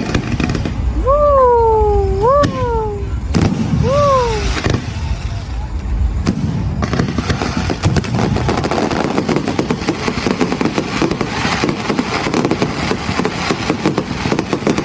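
Fireworks crackling densely through the second half over outdoor crowd noise. Before that, three rising-and-falling whistle-like calls sound over a deep rumble that stops about six seconds in.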